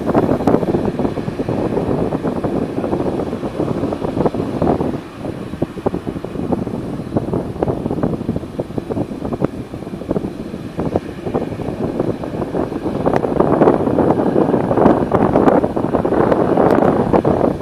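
Wind buffeting the microphone over the steady noise of a Boeing 787-9 Dreamliner's engines as it taxis. The gusts grow louder over the last few seconds.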